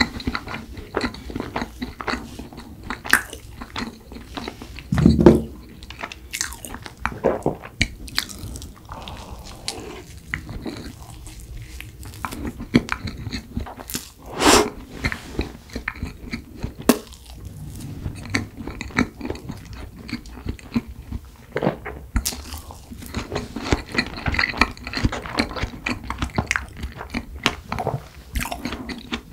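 Close-miked chewing of a mouthful of strawberry cream cake: wet, sticky mouth sounds and lip smacks in quick succession, with a loud low thump about five seconds in.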